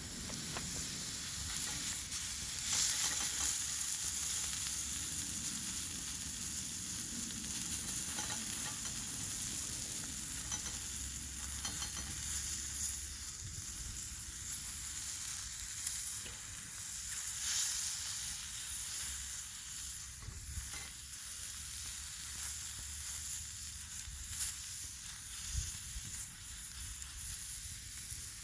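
Food sizzling in a hot frying pan, a steady hiss with scattered pops and spits.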